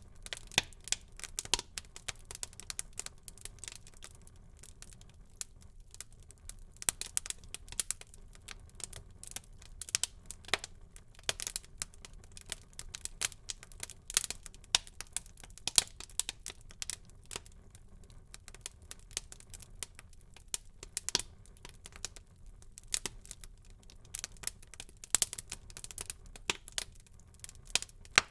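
Wood fire burning in a fireplace, crackling with many irregular sharp pops and snaps over a faint low steady hiss of the flames.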